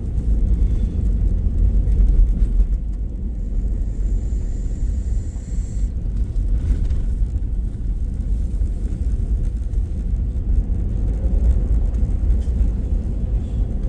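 Truck driving: a loud, low, steady rumble.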